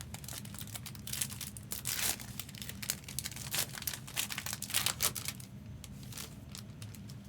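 Foil trading card pack being torn open and its wrapper crinkled: irregular crackling and rustling, busiest in the first five seconds, over a steady low hum.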